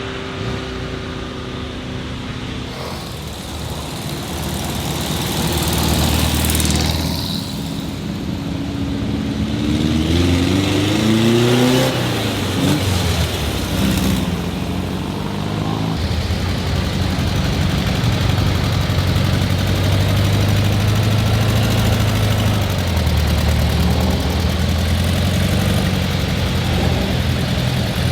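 Vintage car engines running as the cars pass by, one revving up about ten seconds in with its pitch rising, over a steady low engine hum.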